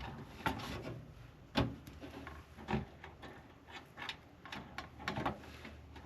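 Computer hardware being handled during a motherboard install: a string of irregular knocks and clicks with rustling between them, the loudest about a second and a half in.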